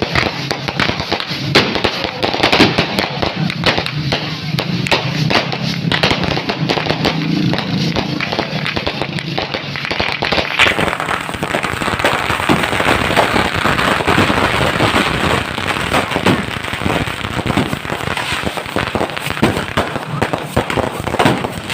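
Fireworks and firecrackers going off nonstop: a dense, rapid crackle of many overlapping sharp pops with no pause.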